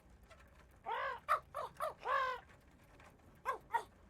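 Parrot squawking: a run of about five short, harsh calls starting about a second in, then two more near the end.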